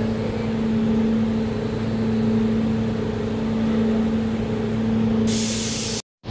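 Jakarta LRT light-rail car running, heard from inside: a steady electric hum over the rumble of the ride. Near the end a sudden loud hiss bursts in, then the sound cuts off abruptly.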